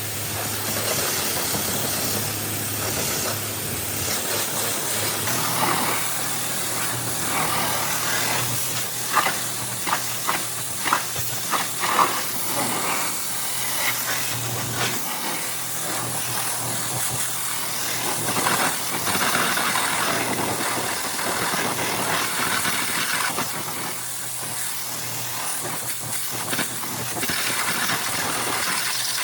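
Car wash equipment running: a steady hissing jet over a low motor hum, with a run of sharp knocks near the middle.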